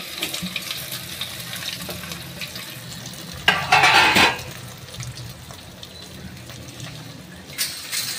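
Cut pieces of steamed bottle-gourd muthiya sizzling in a steel pan of hot tempering oil with mustard and sesame seeds, on a lowered flame, with the pieces being turned. A louder burst of sizzle and scraping lasts under a second, about three and a half seconds in.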